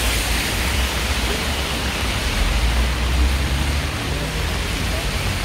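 Steady rain falling, an even hiss, with a low rumble underneath that drops away about four seconds in.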